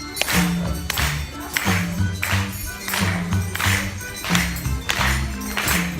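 Music with a steady bass line and a tambourine shaken and struck on the beat, about three jingles every two seconds.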